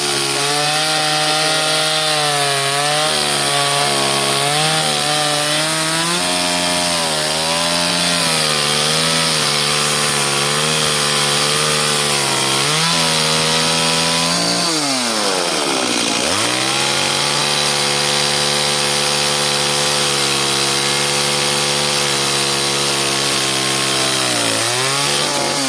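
Two-stroke chainsaw running under load, cutting wood, its engine note wavering as the chain bites. About 15 s in the engine drops sharply in pitch and revs back up, and it dips briefly again near the end.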